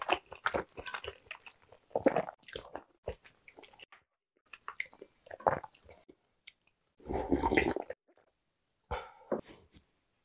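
Close-miked chewing of spicy egg tteokbokki, with wet mouth sounds, then about seven seconds in a second-long sip from a bowl of fish-cake broth.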